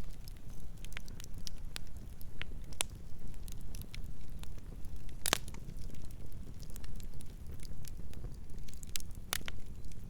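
Campfire burning with a steady low rumble and scattered sharp crackles and pops, the loudest pop a little past five seconds in and another just past nine seconds.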